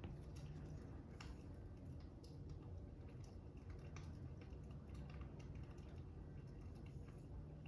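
Faint crackling fire with irregular small pops and clicks over a low steady rumble, mixed with light taps of a stylus writing on a tablet screen.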